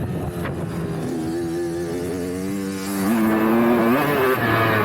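Dirt bike engine running under throttle, its pitch holding and then stepping up, louder, about three seconds in.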